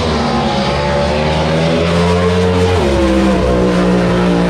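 Drag boat's racing engine at full power, a loud, steady drone whose pitch steps down about two seconds in and again near three seconds.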